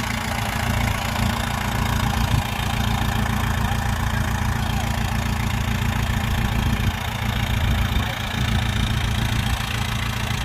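Heavy diesel engine of earthmoving machinery idling steadily with a fast, even low pulse.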